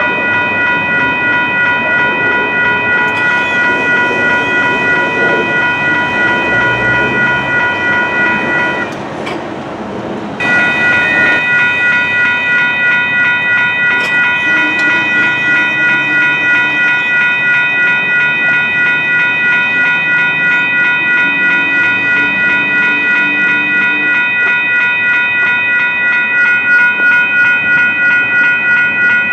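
Grade crossing warning bells ringing rapidly and steadily, broken by a short gap about nine seconds in, over the rumble and clatter of a train on the rails.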